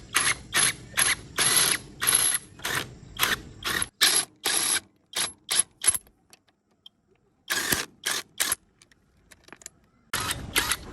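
A ratcheting tool worked in short, irregular bursts: about a dozen quick clattering runs in the first six seconds, a pause, three more around eight seconds, and a longer run near the end.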